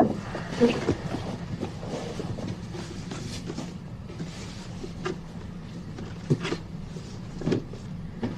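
Soft rustling and a few light knocks as gifts are handled and taken out of their packaging, over a low steady room hum.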